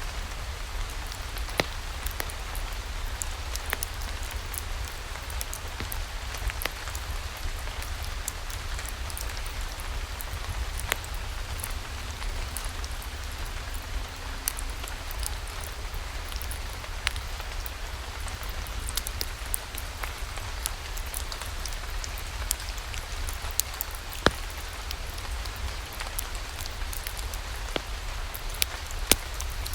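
Steady rainfall, an even hiss with scattered sharp ticks of single drops and a constant low rumble underneath.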